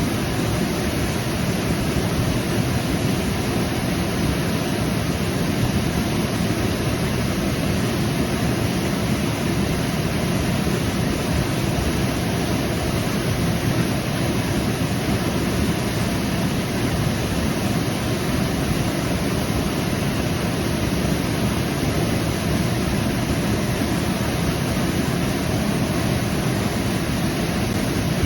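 Waterfall rushing: a steady, unbroken roar of falling water with its weight in the low end.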